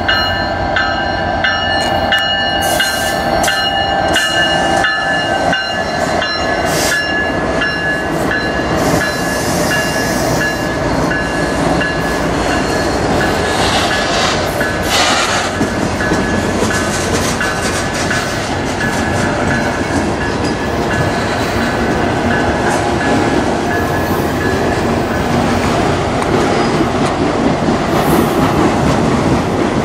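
A CN freight train's diesel locomotives pass close by, then a long string of freight cars rolls past with steady wheel-and-rail rumble and clacking over the rail joints. Steady high tones sound over the train for about the first twelve seconds, then fade.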